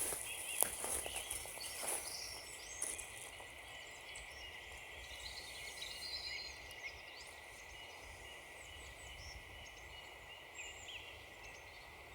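Small woodland birds singing, with many short, high chirps and slurred notes overlapping throughout. A few crunching footsteps on frozen ground sound in the first three seconds.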